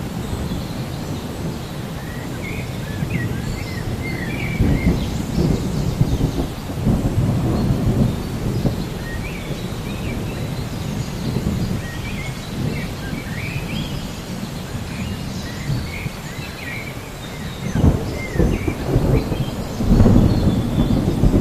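Thunderstorm ambience: rain falling steadily while thunder rumbles roll and swell, loudest near the end, with scattered bird chirps.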